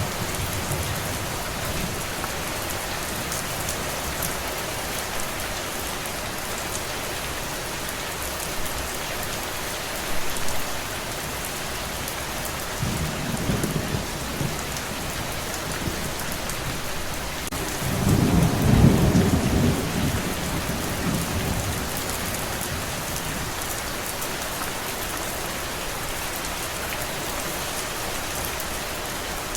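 Steady heavy rain falling, with low rumbles of thunder rolling in: a shorter one about halfway through and a longer, louder one about two-thirds of the way in.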